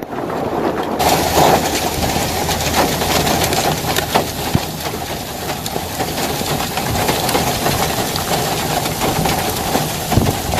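Hail and rain pelting down: a loud, dense hiss made of countless small sharp hits, setting in suddenly about a second in and holding steady.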